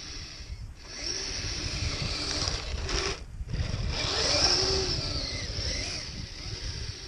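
Kyosho Blizzard RC snowcat driving on its metal tracks, its electric motor and gearbox whining with pitch that wavers with the throttle. It cuts out briefly twice, just under a second in and again a little after three seconds.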